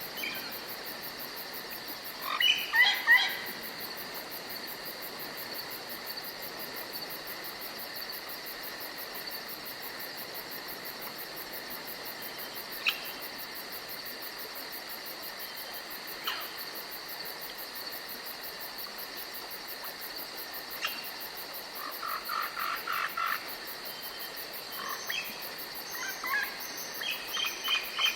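Woodland ambience: a steady high insect trill runs throughout, with scattered bird calls over it: a quick burst of chirps about two to three seconds in, a few single short calls, and runs of quick repeated notes in the last third.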